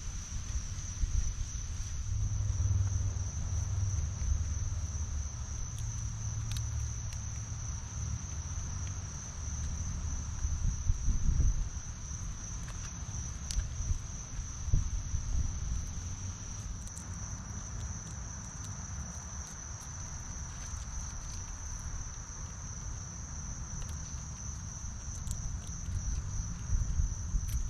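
Crickets trilling in a steady, unbroken high chorus, over a low rumble with scattered taps and knocks.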